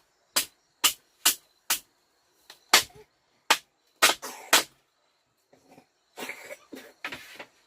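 Sharp blows of a hand tool striking, about two a second at first, then slower and uneven. Near the end comes a couple of seconds of scraping, rustling noise.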